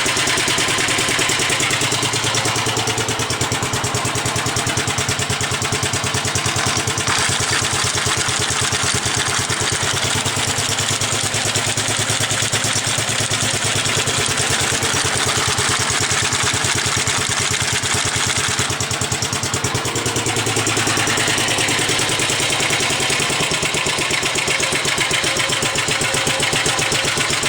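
1945 Gravely Model L walk-behind tractor's single-cylinder engine running steadily with a quick, even firing beat, warmed up and running smoothly.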